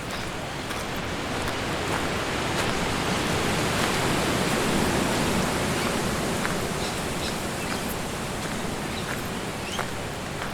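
Wind rushing through the trees in a gust that swells through the middle and eases off again, with a few faint ticks; little wind buffeting on the muffed mic itself.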